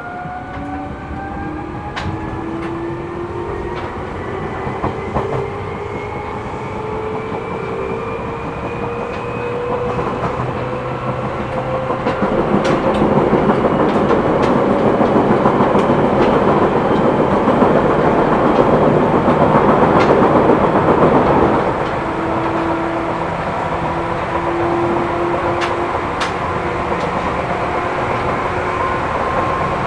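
Seibu New 2000 series electric train heard from inside the car as it picks up speed, its motor and gear whine rising steadily in pitch, with wheels clicking over rail joints. From about twelve seconds in, a louder rushing roar covers everything for about ten seconds, then it drops back to a steady running hum.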